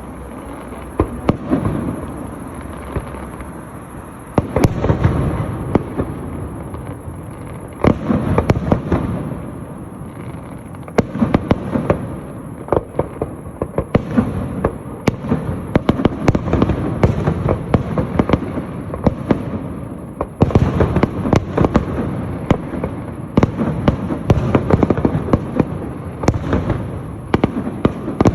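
Fireworks display: a continuous barrage of bangs and crackling shell bursts over a rumbling background, with denser, louder volleys about a third of the way in and again through the second half.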